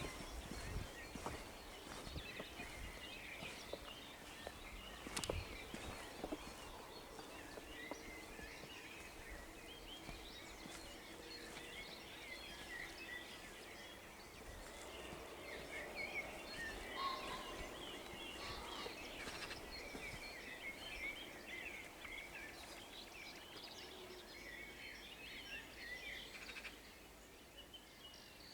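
Dawn chorus of many songbirds singing at once over open meadow: dense, overlapping chirps and trills, with a few sharp knocks in the first seconds.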